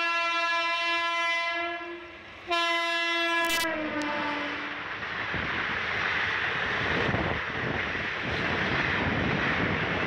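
Locomotive horn held, breaking off just before two seconds in, then sounding again and falling in pitch as the train passes. A steady rushing noise of the passing train follows.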